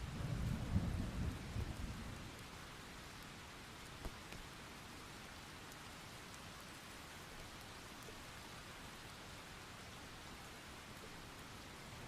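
Rolling thunder rumbling low over steady rain, loudest in the first couple of seconds and then fading away, leaving the rain falling evenly. A single sharp tap about four seconds in.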